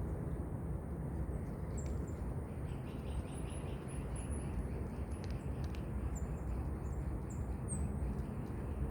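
Small birds chirping in short, high calls, scattered over a steady low outdoor rumble.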